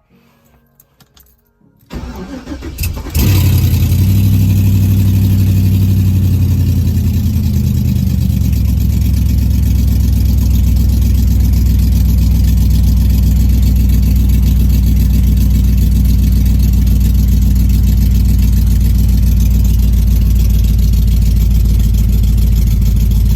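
Cold start of a 1983 Pontiac Firebird's swapped-in 5.3 L LS V8 in sub-zero weather: a second or so of cranking, then the engine catches about three seconds in. It runs at a fast cold idle that drops and settles lower a few seconds later, then idles steadily.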